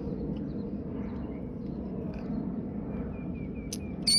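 A small bird giving soft, scattered chirps over a steady low outdoor background, then a quick run of short peeping notes about three seconds in and one loud, clear call near the end.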